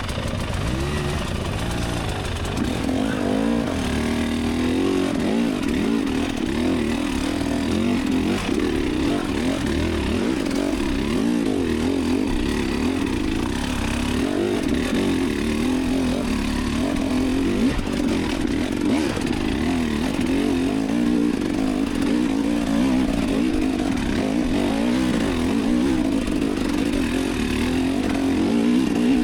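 Enduro dirt bike engine being ridden, its revs rising and falling continually as the throttle is worked.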